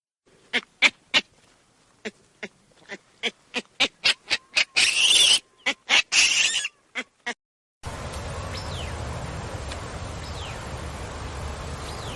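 A series of short animal calls that come faster and faster, two of them drawn out longer, over about seven seconds. Then, from about eight seconds in, a steady outdoor background with a few faint falling bird whistles.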